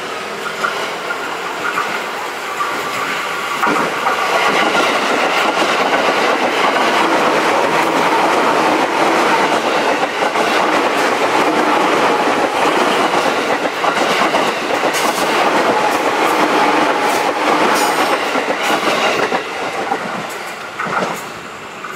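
KRL Commuter Line electric train passing close by on curved track, its wheels clattering over the rails. The sound builds over the first few seconds, holds loud, then eases near the end.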